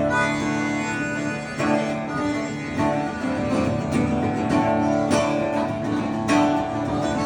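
Acoustic guitar strumming chords in a steady rhythm, an instrumental passage of a folk-country song with no singing.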